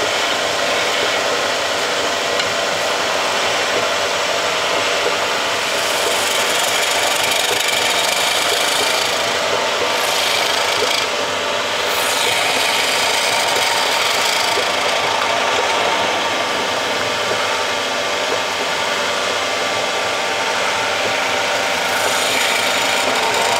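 Wood lathe running while a hand-held tool works the spinning wooden blank: a steady scraping rasp that eases briefly near the middle.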